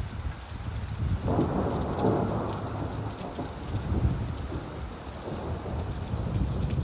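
Steady rainfall with a low rumble of thunder that swells about a second in and slowly rolls away.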